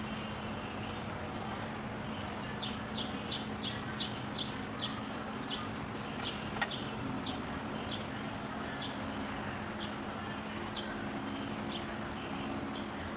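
A bird chirping in a quick run of short high calls, about three a second, then more scattered, over a steady low hum. One sharp click about six and a half seconds in.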